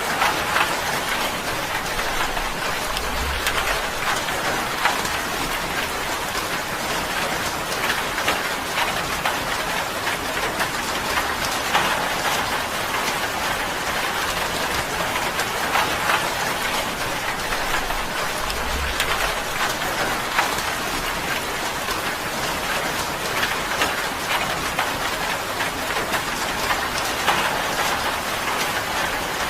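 Steady rain on a tin roof: a dense patter of drops striking the metal.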